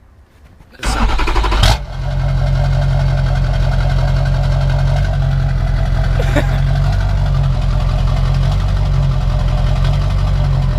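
Diesel pickup truck engine starting with its exhaust and muffler removed: it catches with a loud burst about a second in, then settles into a steady, loud idle through the open straight pipe.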